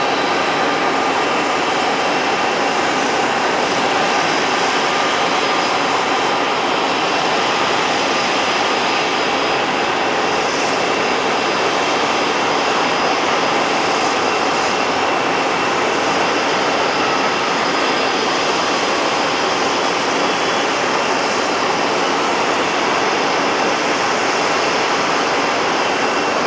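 Boeing 757 jet engines of a landing airliner: a steady, even roar with faint high whining tones in it.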